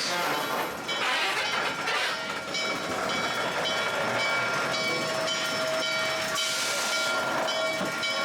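Steam train rolling along: steady running noise with surges of steam hiss and thin high steady tones over it.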